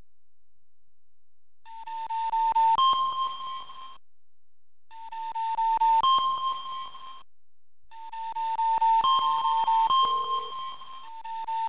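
Electronic alert tones from a live seismic monitor: three bursts of beeping, each a tone that steps up in pitch partway through, laced with rapid clicks and separated by short pauses.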